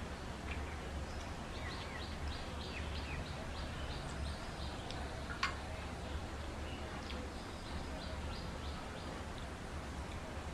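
A small bird chirping in two runs of quick, short high notes over a steady low background hum, with one sharp click about five seconds in.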